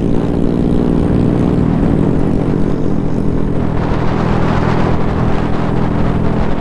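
Honda Grom's 125 cc single-cylinder engine running at a steady cruising speed while riding. A rushing noise builds from about four seconds in.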